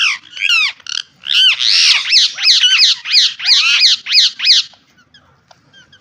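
Ringneck parakeets squawking: a fast run of loud, harsh calls, each rising then falling in pitch, about three a second, which stops about three-quarters of the way through, leaving a few faint chirps.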